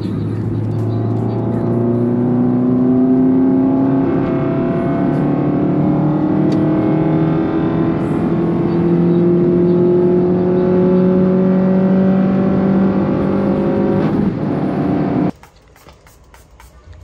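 Remapped Maruti Baleno's engine pulling under acceleration, its note rising slowly and steadily in pitch for about fourteen seconds, then cut off abruptly about fifteen seconds in.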